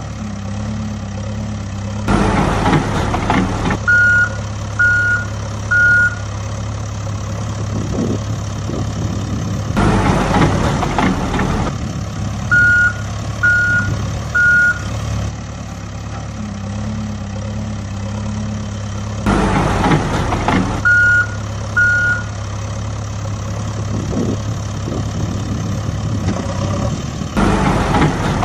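A heavy vehicle's engine runs steadily, with a reversing alarm beeping in groups of two or three, about a second apart. Four times it is joined by a louder, noisy rush lasting about two seconds.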